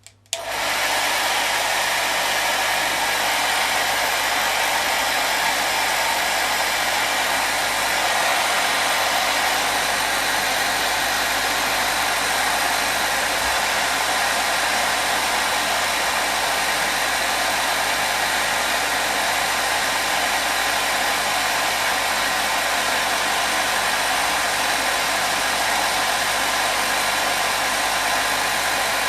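Hair dryer blowing steadily: a continuous, even rushing noise with a faint motor hum, switching in abruptly right at the start.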